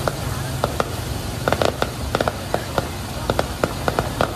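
Aerial fireworks bursting overhead: an irregular string of sharp pops and crackles, several a second, over a steady low rumble.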